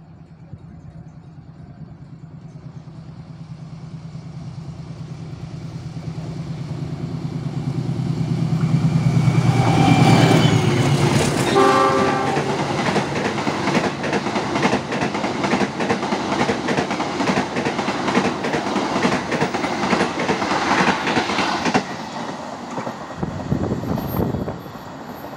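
An executive passenger train passes at speed on the next track. Its diesel locomotive's rumble grows louder over about ten seconds, and a horn sounds briefly as it arrives. The coaches' wheels then clatter rapidly over the rail joints for about ten seconds before dropping away near the end.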